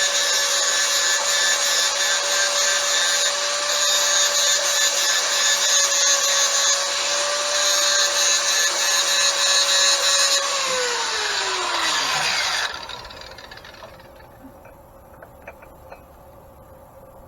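A grinder running steadily as it grinds down a bronze bushing. It is switched off about ten seconds in, and its whine falls in pitch as it spins down over a couple of seconds. A few faint light clicks follow.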